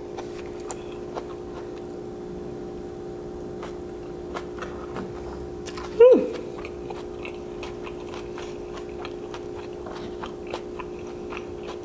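A person chewing a mouthful of kimchi fried rice with small, scattered mouth clicks. About six seconds in there is a short "mm" that falls in pitch. A steady low hum runs underneath.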